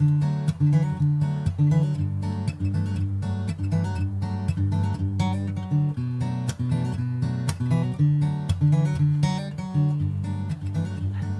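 Background music: a strummed and plucked acoustic guitar arrangement.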